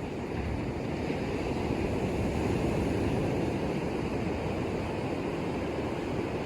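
Surf washing onto a beach, a steady rushing that swells a little midway, with wind buffeting the microphone.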